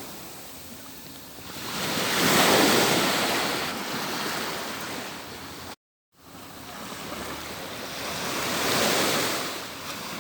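Atlantic surf breaking on a beach: two waves swell and wash out, the first loudest about two and a half seconds in and the second near the end. Just past halfway the sound cuts out completely for a split second.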